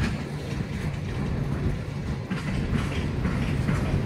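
Empty coal hopper cars of a slow freight train rolling past: a steady low rumble of steel wheels on the rails, with a few clicks and clanks in the second half.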